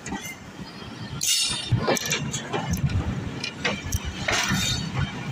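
Passenger train coaches running on the track, heard from an open window: a steady low rumble of wheels on rail with scattered metallic clinks and knocks.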